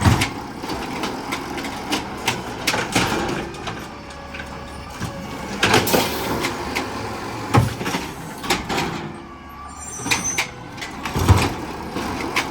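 Garbage truck working: its engine runs under a series of loud clanks and bangs, the heaviest about six, seven and a half and eleven seconds in.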